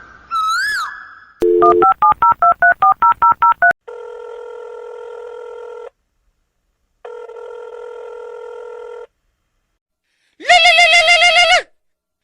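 The tail of a rooster crow, then a fast run of about a dozen telephone keypad dialing beeps, two long ringback tones with a pause between, and a loud warbling telephone ring near the end.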